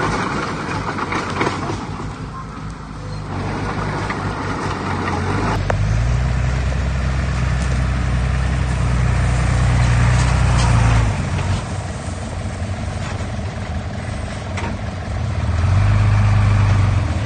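Heavy diesel engine of earthmoving machinery running, pulling harder and louder for several seconds from about five seconds in, then easing back, and loading up again briefly near the end.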